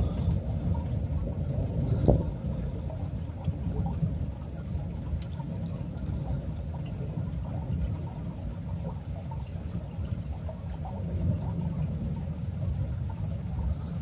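Heavy rain pouring down steadily in a thunderstorm, with small scattered ticks and one sharp tap about two seconds in.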